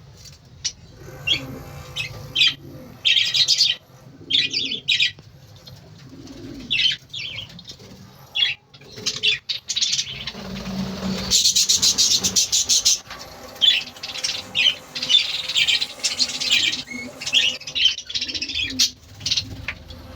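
A flock of budgerigars chirping and chattering in short, high calls. About eleven seconds in there is a dense two-second run of rapid wing flapping.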